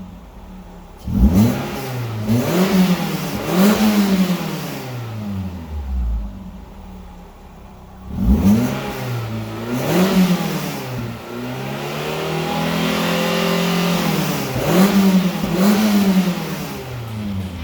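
Toyota MR2 (SW20) with a Fujitsubo Power Getter exhaust, revved while stationary: three quick throttle blips, a drop back to idle, two more blips, then the revs held steady for a few seconds before two final blips.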